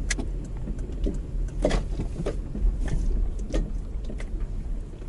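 Gusty wind rumbling on the microphone, with scattered sharp clicks and knocks over it.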